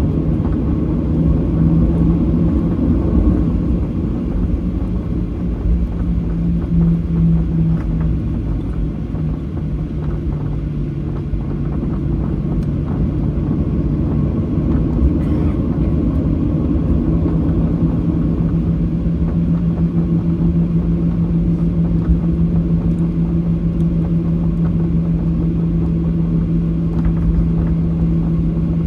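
Boeing 737-800's CFM56-7B engines running, heard from inside the cabin as a steady rumble with a low hum. The hum fades for several seconds around the middle, then returns.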